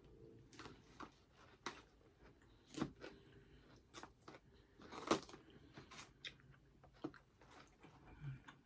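A person chewing and biting food close to the microphone, with irregular crunches; the loudest come about three and five seconds in.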